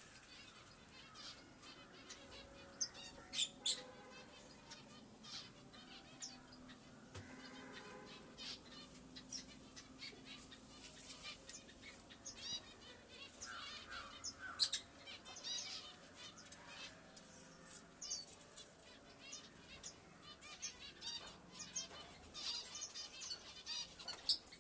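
Pet birds chirping: many short, high calls scattered throughout, with a few louder, sharp ones.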